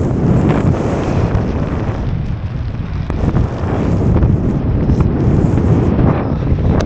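Strong gale buffeting the microphone: a loud, steady low rumble of wind noise, with a few brief ticks.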